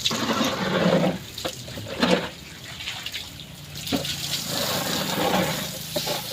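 Water splashing and sloshing as cassava peels are washed by hand, with several sharper splashes.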